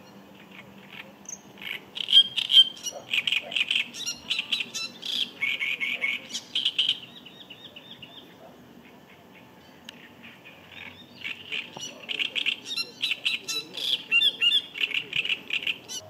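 Great reed warbler singing: two spells of song, each a few seconds of rapidly repeated notes, with a pause of a few seconds between them.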